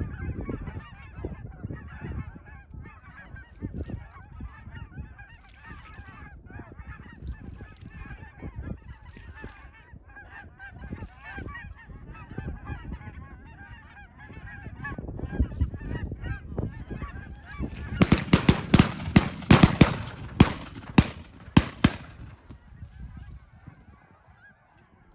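Many geese honking together, overlapping calls from a flock. Late on, a rapid run of loud sharp clicks or knocks cuts in for about four seconds and is the loudest thing heard.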